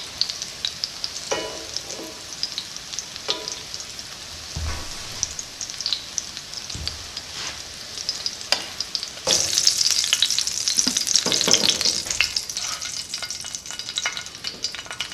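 Egg-battered chicken cutlets frying in a pan of hot oil: a steady crackling sizzle with occasional light knocks. About nine seconds in the sizzle suddenly grows louder and brighter.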